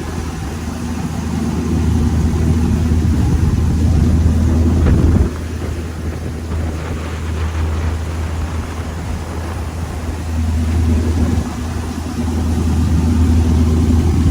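Boat engine running steadily under a rush of wind and water noise, swelling louder and dropping back a couple of times.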